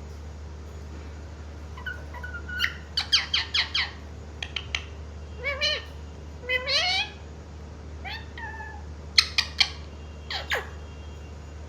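Pet parrot calling in short, gliding, pitched squawks and chirps, some in quick runs of several notes and some single rising calls, with a sharply falling call near the end.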